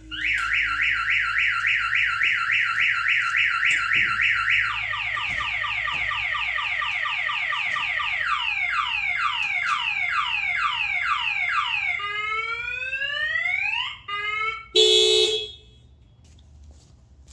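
Car alarm siren cycling through its tones. It warbles fast for about five seconds, then runs through a string of falling sweeps and then rising sweeps. A short loud blast comes about fifteen seconds in, and then the siren stops.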